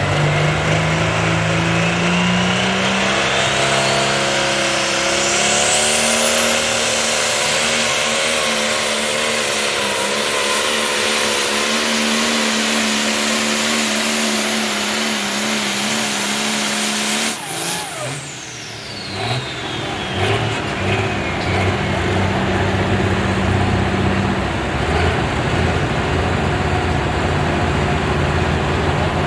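A Light Pro Stock pulling tractor's turbocharged diesel engine runs at full throttle, with a high turbo whine climbing and then holding. About 17 seconds in, the throttle is cut abruptly and the whine winds down as the engine drops to a lower, steady run.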